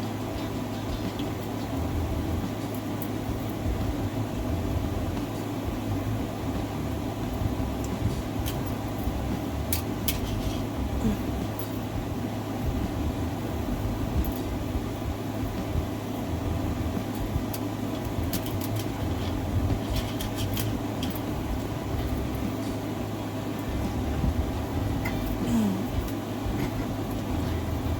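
Steady background machine hum with a constant low drone, and scattered light clicks and taps of small craft pieces being handled and glued down, in clusters about a third of the way in, in the middle and near the end.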